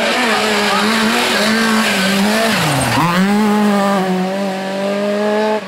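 Rally car engine running at high revs under load, its pitch dropping sharply for a moment near the middle, as on a lift or gear change, before climbing back and holding. The loudness falls away suddenly at the very end.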